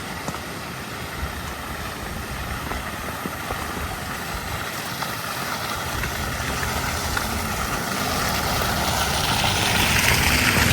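A motor vehicle drawing nearer on a snowy street, its engine and tyre noise growing louder toward the end.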